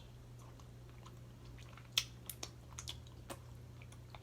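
Close-miked eating of mussels and shrimp pasta: chewing and wet mouth sounds. A sharp click comes about two seconds in, followed by a few lighter clicks, over a steady low hum.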